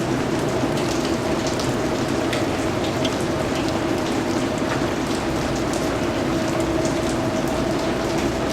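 Steady rain falling, an even hiss with individual drops pattering and ticking through it. A steady low hum runs underneath.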